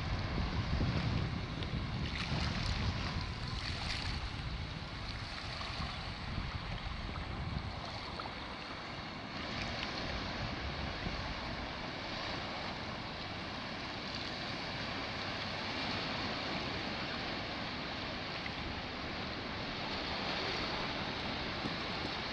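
Black Sea surf washing onto the beach as a steady wash of waves. For the first several seconds wind rumbles on the microphone over it.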